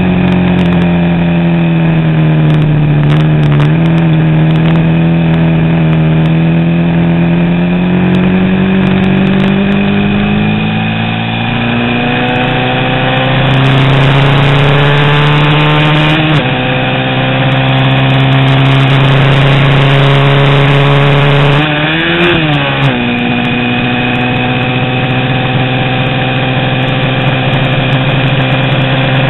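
A 350 cc vintage road-racing motorcycle engine running hard, its pitch climbing in long pulls. The pitch drops suddenly about 16 seconds in at a gear change and wavers quickly up and down around 22 seconds in before it holds steady.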